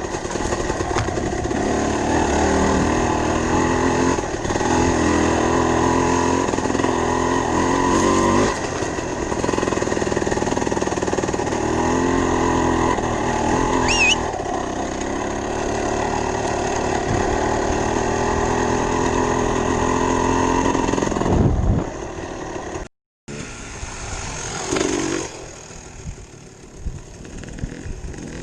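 Dirt bike engine running, its pitch stepping up and down as it revs and shifts through the gears. About three-quarters of the way through it drops away sharply, cuts out for a moment, and then goes on much quieter.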